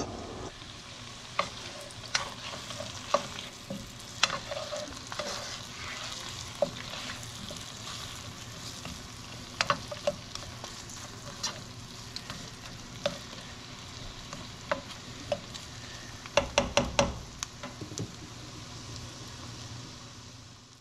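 Frozen carrot slices and diced onion sizzling in butter in a nonstick frying pan, with a utensil stirring and clicking against the pan. A quick run of taps comes about three-quarters of the way through.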